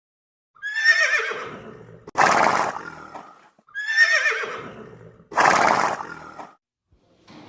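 A horse whinnying twice, each wavering neigh ending in a breathy snort; the two calls are alike.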